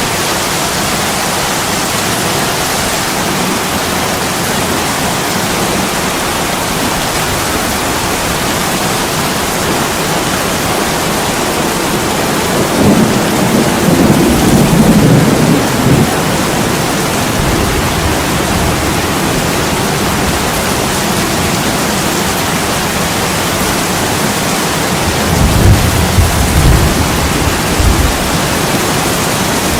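Heavy rain pouring onto an attic window, a steady hiss, with two low rolls of thunder, one near the middle and one near the end.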